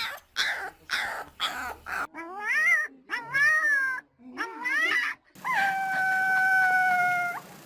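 An animal's vocal calls: a quick run of short harsh cries, then three pitched cries that rise and fall, then one long, steady, high call held for about two seconds before it stops.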